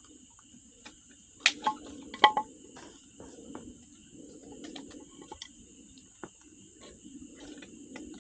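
Wood campfire crackling with scattered sharp pops, the loudest a pair about a second and a half and two seconds in, over a steady high-pitched insect chorus.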